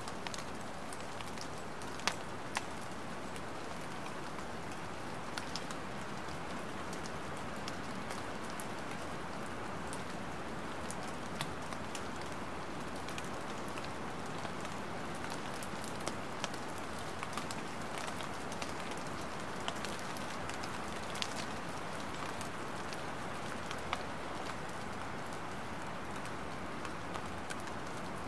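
Light rain falling steadily, with scattered sharp ticks of single drops landing close by every few seconds.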